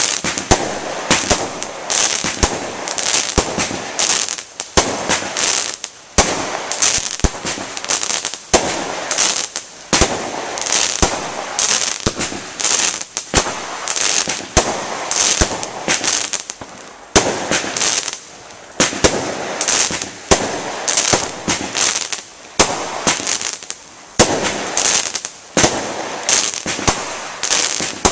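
Fireworks International 'Lemon Bombard' 25-shot firework barrage cake firing shot after shot, about one a second, each followed by a spell of dense crackling.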